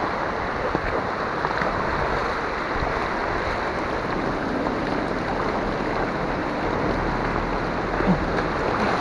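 Heavy rain pouring steadily on the street, an even rushing hiss with no break.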